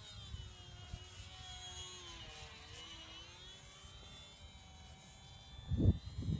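Radio-controlled airplane's motor and propeller whining as it flies, the pitch slowly drifting up and down, over a low wind rumble on the microphone. Heavy gusts of wind hit the microphone near the end.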